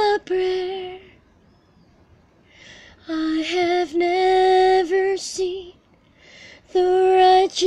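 A woman singing an improvised worship song unaccompanied, in long held notes, with three phrases separated by pauses of about two seconds.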